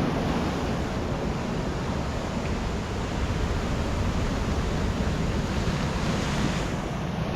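Sea surf washing onto the shore with a steady rush, a wave surging a little past six seconds in, and wind buffeting the microphone.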